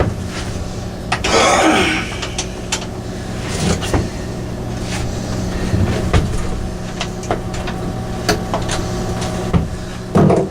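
Hand tools working on a mini bike: scattered metal clinks and knocks, with a longer scraping or rattling stretch about a second in and a heavier knock near the end, over a steady low hum.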